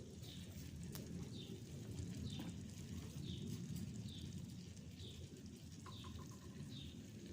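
A bird chirping faintly, short high calls repeated about once a second, over a low steady rumble.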